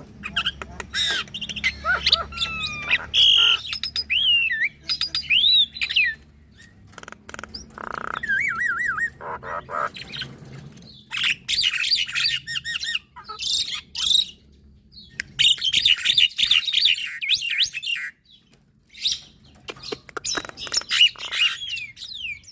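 Javan myna and black-winged starling singing together in a long, varied stream of whistles, gliding notes, rapid trills and harsh chattering, broken by short pauses about two-thirds of the way in.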